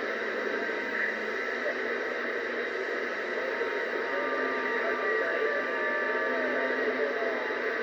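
CB radio receiver hissing with static on an open channel, with faint garbled voices of distant stations buried in the noise. A thin steady whistle comes in about halfway through and fades near the end.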